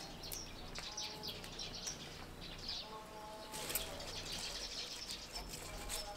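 Small birds chirping in short, high calls, busiest about halfway through, over a faint low steady hum.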